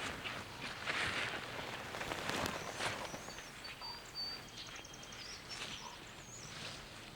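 Rustling and light cracking in forest undergrowth, with small birds chirping and trilling high up from about three to five seconds in.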